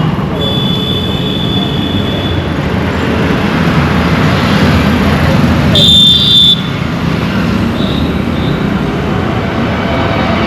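Busy road traffic with a steady engine and tyre rumble. A short, high horn toot comes early on, and a louder one about six seconds in.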